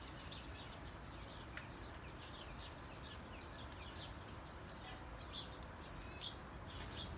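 Faint chirping of small birds: quick, high, falling chirps repeating several times a second.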